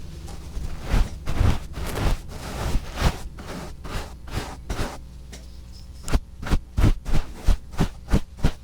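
Close-up ASMR trigger sounds on a 3Dio binaural microphone: irregular sharp crackly taps and short scratching strokes, coming thicker and stronger in quick succession over the last couple of seconds, over a steady low hum.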